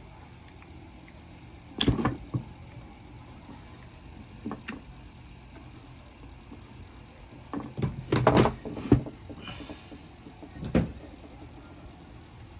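Scattered knocks and clunks of hands and tools working on a disassembled angle grinder's parts, with a dense run of loud knocks about three-quarters of the way through and a short scrape just after it, as a stiff part is forced loose.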